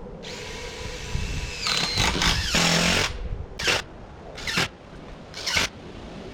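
A power tool running for about three seconds with a steady whine, then four short bursts about a second apart.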